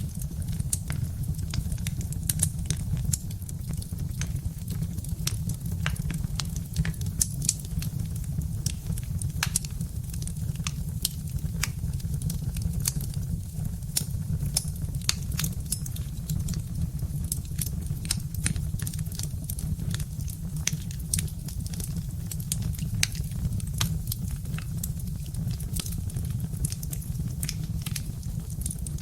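Birch-wood fire crackling, with frequent irregular sharp pops and snaps over a steady low rumble.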